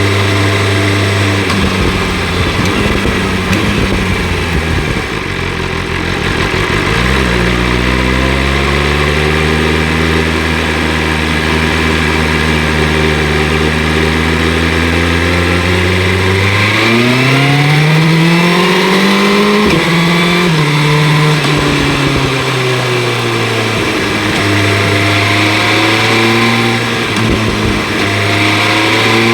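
BMW S1000 RR inline-four sportbike engine with an Akrapovic exhaust, heard from the rider's position over wind noise. It runs at steady revs, then pulls up through the revs a little past halfway and drops sharply at a gear change. After that it eases off and holds steady again.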